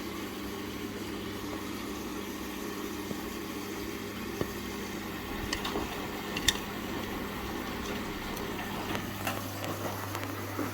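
Indesit washing machine running with its covers off: a steady electrical hum with a few light clicks and knocks about halfway through and near the end.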